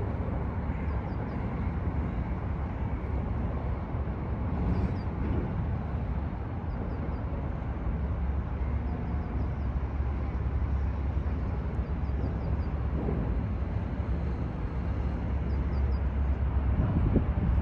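Steady low background rumble with no clear events. Faint, short high chirps come in little groups of three or four every few seconds.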